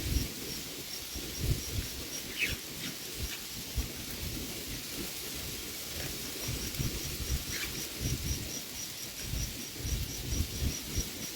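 Outdoor ambience: an insect chirping in an even high pulse about four times a second, and a couple of short bird chirps, over a low rumbling noise.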